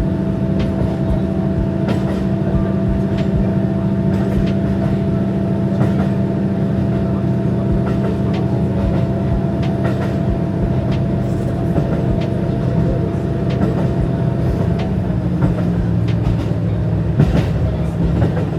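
KiHa 150 diesel railcar running along the line, its engine hum steady under regular wheel clicks over the rail joints. About 15 seconds in, the engine note changes and one of its tones drops away.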